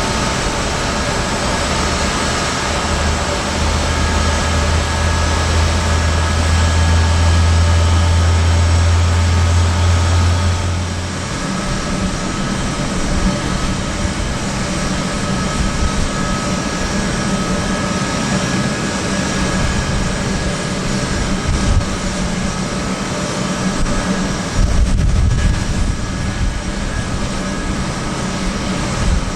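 Boeing C-17 Globemaster III's turbofan engines running at low power for taxi, a steady whine over a broad rush. A deep rumble under it stops about a third of the way in, and a short low surge comes back near the end.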